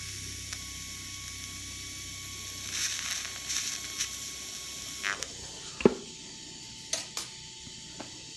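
TIG welding arc hissing steadily, with a faint high whine, as a tack weld is laid, cutting off about five seconds in. A few sharp clicks follow.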